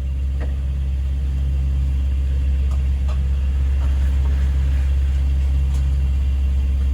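Yacht's inboard diesel engine running steadily under way, a deep even drone.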